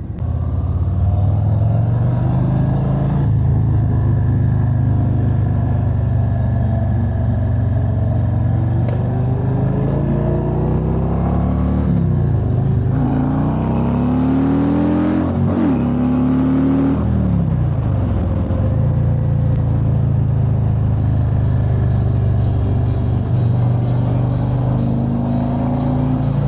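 Harley-Davidson motorcycle V-twin engine running at a steady cruise, heard from the bike, with the engine note dropping and climbing again a couple of times midway as the rider eases off and accelerates. Music with a steady beat comes in over it in the last few seconds.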